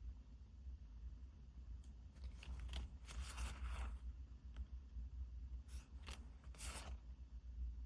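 Packaging and paper being handled during an unboxing: a few short, soft rustles and crinkles about two to four seconds in and again near seven seconds, over a steady low hum.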